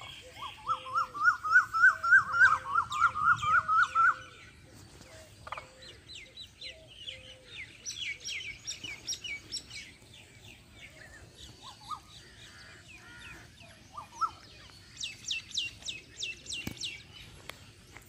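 Birds calling: a loud call of rapid rising notes, about four a second, for the first four seconds, over steady chirping of small birds, with a quick run of high chirps near the end.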